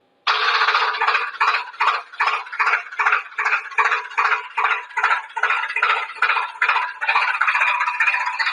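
Rhythmic mechanical clattering from a small motor-driven mechanism, pulsing about three times a second, then running more steadily near the end.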